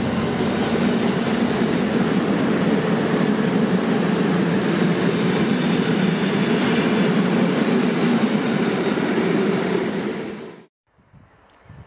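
Freight train of loaded open hopper wagons rolling past: a loud, steady rumble and rattle of wheels on rails, which cuts off abruptly about a second before the end.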